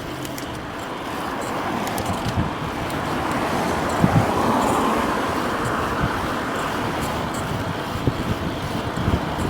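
Road traffic noise, with a car passing that swells loudest about four to six seconds in.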